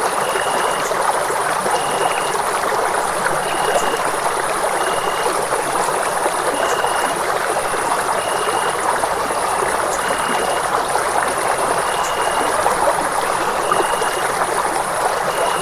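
Running water rushing steadily, like a stream. Above it, a short high tone repeats about once a second, with a constant high-pitched hiss over the top.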